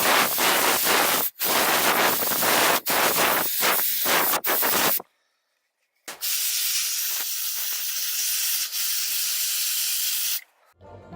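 Compressed air from a duster can blasting across a camera's microphone: a series of gusty bursts with deep wind-noise rumble, then after a short pause a steadier spray hiss with much less rumble.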